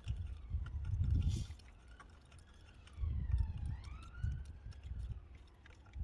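A distant siren wailing, its pitch sliding down and back up, under scattered small clicks and low thumps from work at the engine bay, where a ratchet is tightening spark plugs.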